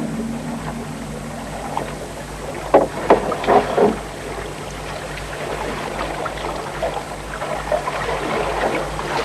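Canoe paddles dipping and splashing in creek water: an irregular run of strokes, bunched about three seconds in, over a steady low hum.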